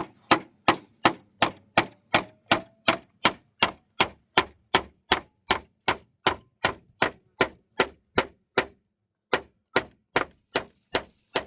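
Steady hammering on timber, about three sharp ringing strikes a second, with a short break about nine seconds in before it resumes.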